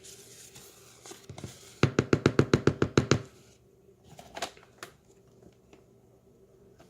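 A quick run of about a dozen sharp knocks, some eight a second, lasting just over a second, after a soft rustling; a couple of fainter knocks follow.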